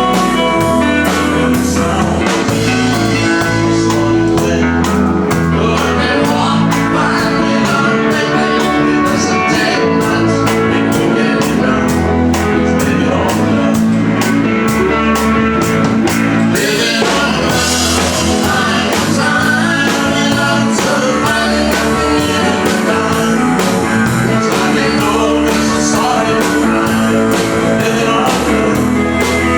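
Live band playing a country-rock song with electric guitar, bass and drums to a steady beat, with a cymbal wash about halfway through.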